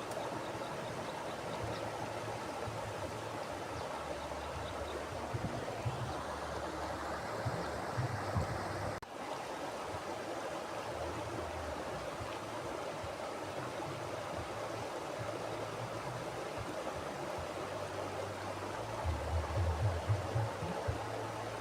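Mountain river flowing over rocks: a steady rushing of water, with deeper gurgles now and then and a momentary dip in level about nine seconds in.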